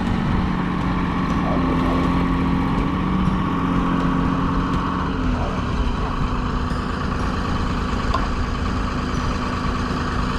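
A heavy diesel engine running steadily at idle. Its pitch steps slightly about five seconds in.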